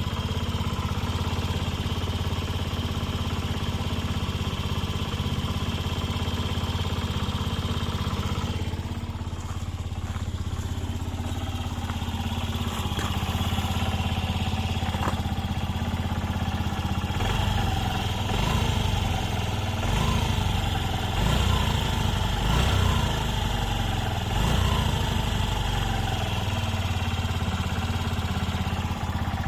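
Honda Gyro Canopy (TA03) scooter engine idling steadily, then revved in about five short throttle blips, each rising and falling back to idle, in the second half.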